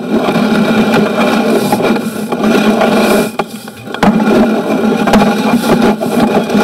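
Sewer inspection camera's push cable and head scraping and rattling along the inside of a 2-inch drain line, over a steady hum; it drops off briefly about halfway through, then resumes.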